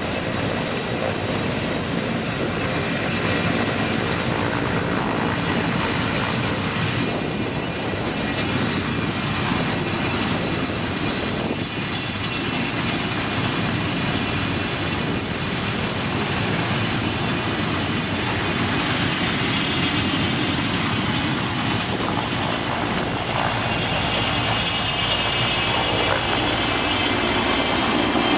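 Sky Crane (S-64 Air-Crane) firefighting helicopter running, its turbine engines giving a steady high whine over a loud rushing noise; the whine edges slightly higher in pitch in the second half.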